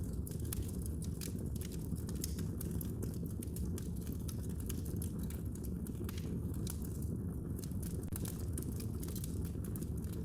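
Wood fire in a fireplace crackling, with many small sharp pops and snaps over the low, steady sound of the burning flames.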